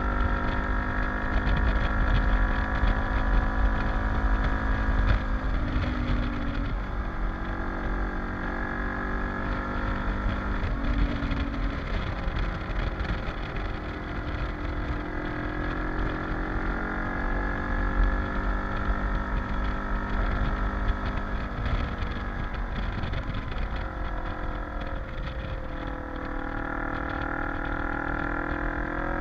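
Kawasaki KLE dual-sport motorcycle engine running under way, its pitch rising and falling with throttle and stepping a few times as gears change. Wind buffets the microphone with a low rumble.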